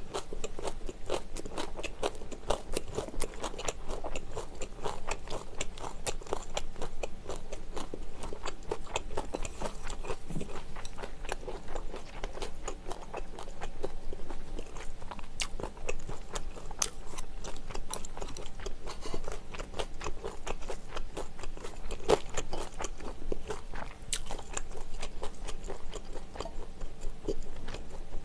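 Close-miked chewing and crunching of a mouthful of food: shredded pork wrapped with raw scallion and cucumber, then kimchi. It is a dense, steady run of small crunches and wet mouth clicks, with now and then a light scrape of chopsticks or a spoon on the dishes.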